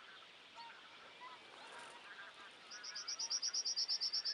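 Distant flock of geese calling, many overlapping honks. From about two-thirds of the way in, a small bird's rapid, high-pitched trill of about eight notes a second rises loud over the flock.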